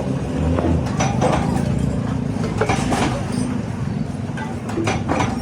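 Workshop machinery running with a steady low hum, with a handful of sharp knocks and clanks scattered through it.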